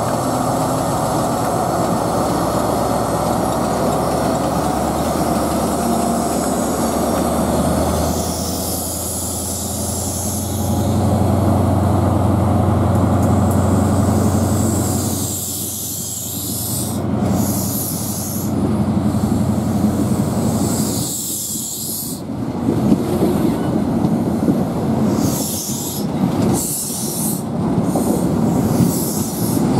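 An InterCity 125 high-speed train departing: the diesel engine of the Class 43 power car hums steadily, then grows louder about ten seconds in as the train pulls away. The coaches then roll past with wheel-on-rail clatter and repeated bursts of high hiss.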